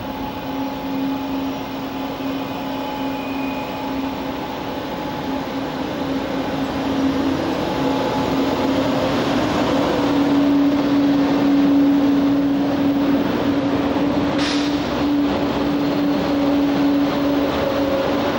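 TGV high-speed train pulling out slowly alongside the platform: a steady electric hum from the traction equipment over rolling wheel noise that grows louder about halfway through as the carriages pass close by, with a brief high wheel squeal about two-thirds of the way in.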